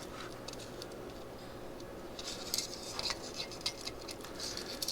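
Light metallic clinks and ticks of small parts being handled, scattered mostly through the second half: wire and carburetor pieces being handled while a clogged go-kart carburetor is cleaned out with wire.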